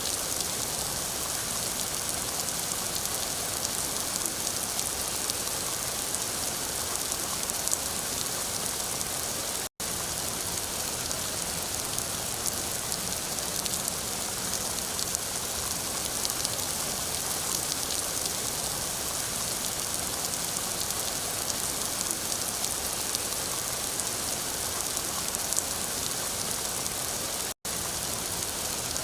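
Steady, dense rain falling, with no let-up except two momentary drop-outs to silence, one about ten seconds in and one near the end.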